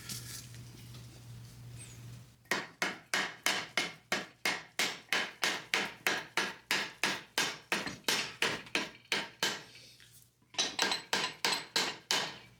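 A small mallet hammering the upper trailing arm onto the torsion bar of a VW Beetle link-pin front beam: a steady run of about three blows a second for some seven seconds, a short pause, then a second quick run of about six blows.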